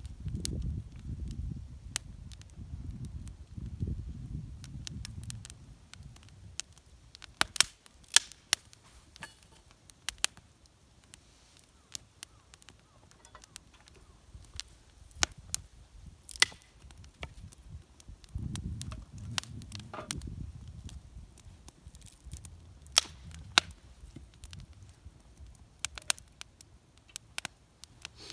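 Wood fire crackling in a homemade fire pit: irregular sharp pops and snaps, a few of them loud. There is low rumbling noise in the first few seconds and again about two-thirds of the way through.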